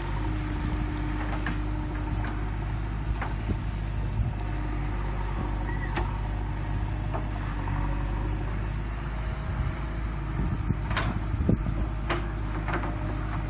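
JCB 3DX backhoe loader's diesel engine running steadily under work, with a few short sharp knocks, most of them near the end.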